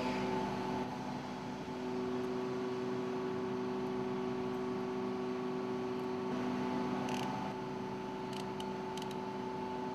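Steady mechanical hum made of several fixed tones, with a few light clicks near the end.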